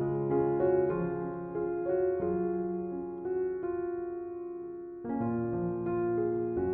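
Slow, gentle piano music: soft melody notes over held chords, with one chord left to fade for a couple of seconds before a new chord comes in about five seconds in.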